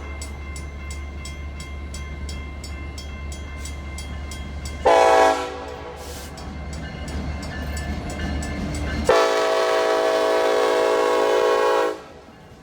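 Diesel locomotive air horn sounding a short blast about five seconds in, then a long blast of nearly three seconds about nine seconds in. Under the first part, a low steady rumble of the passing train with a quick regular ticking about three to four times a second.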